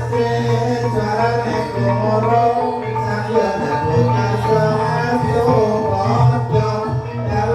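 Live ebeg accompaniment music from a Banyumas gamelan ensemble: steady low gong-like tones and hand-drum strokes under a wavering melody line.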